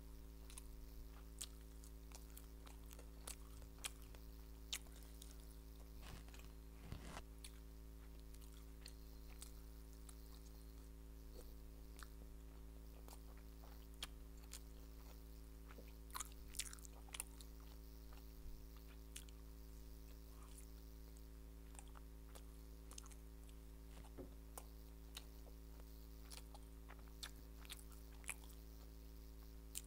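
Close-up mouth sounds of someone eating steamed and fried veg momos: quiet chewing with scattered sharp, wet clicks and a few crunchy bites, the loudest cluster about halfway through. A steady electrical hum underlies it.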